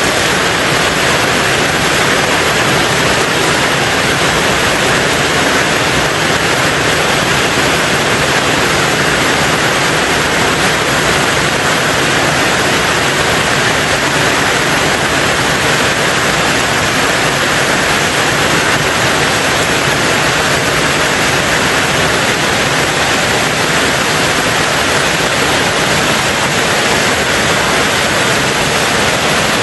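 Steady heavy rain on a tin roof, a dense even hiss with no single drops standing out.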